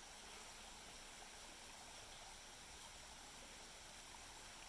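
Near silence: a steady faint hiss of background noise.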